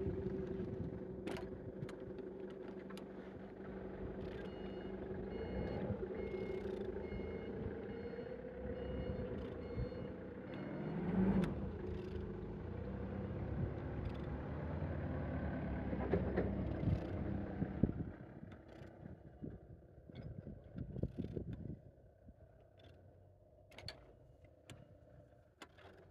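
A vehicle engine runs steadily, with a reversing alarm beeping for a few seconds near the start. After about 18 s the running stops, leaving quieter scattered metallic clicks and knocks.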